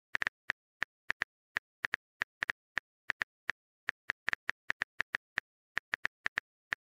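Phone keyboard tap clicks, a rapid irregular run of short sharp clicks, several per second, as a text message is typed.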